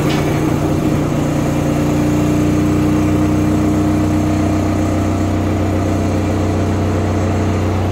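Samsung washing machine running with a loud, steady low drone and hum, the machine vibrating hard enough to shake the floor.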